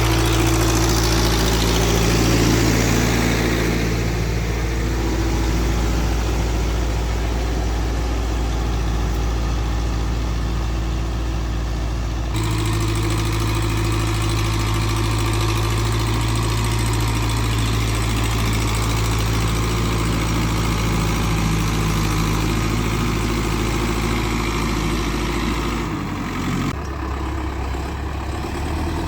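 Renault 681.4S tractor's MWM diesel engine running steadily with an even low hum. The sound changes abruptly twice, about 12 and 26 seconds in.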